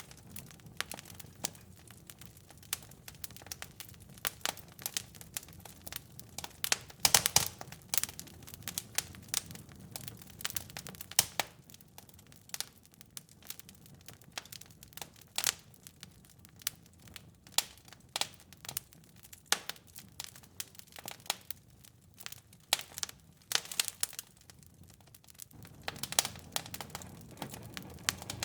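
Wood fire burning in a fireplace: irregular sharp crackles and pops, with a cluster of louder pops about seven seconds in, over a low steady rumble of the flames that fades out partway through and returns near the end.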